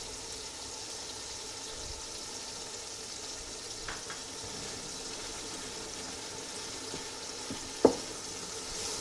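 Chicken pieces sizzling steadily in hot ghee in an aluminium pot. A light tick about four seconds in as a spoonful of garlic paste goes in, and one sharp knock of a spoon against the pot near the end.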